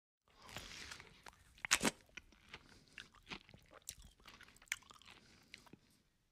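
Close-miked eating: chewing and crunching of food, a run of irregular sharp crackles and clicks, the loudest crunch about two seconds in.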